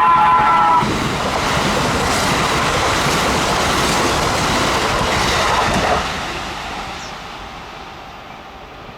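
Kintetsu train passing through a station without stopping: its horn sounds and cuts off about a second in, then the loud rushing and rumble of the cars going by at speed, which drops suddenly about six seconds in and fades away.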